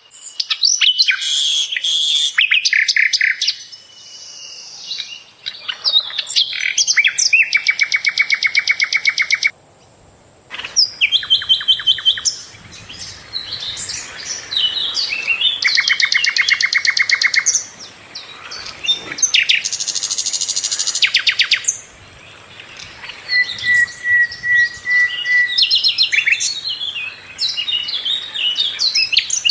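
Sikatan londo, a small flycatcher kept as a songbird, singing a loud, varied song: rapid trills and quick chirping phrases with short pauses between them. A faint steady high whine runs beneath.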